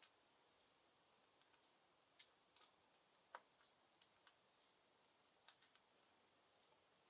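Faint, irregular clicks and taps, about a dozen, from budgies' beaks pecking at chopped fruit and vegetables in a food bowl.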